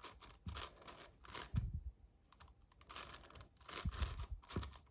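Magnetic 7x7 Rubik's-type cube being turned by hand through an edge-pairing algorithm: quick clusters of plastic clicks as the layers turn and snap into place, with a short pause about halfway through.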